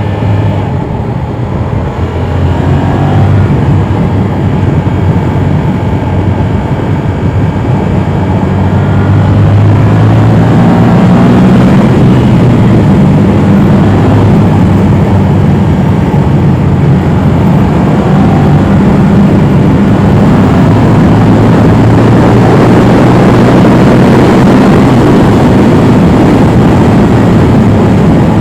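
Motorcycle riding under way: the Yamaha R7's parallel-twin engine running beneath heavy wind noise on the microphone. Both grow louder over the first ten seconds or so, then hold steady and loud.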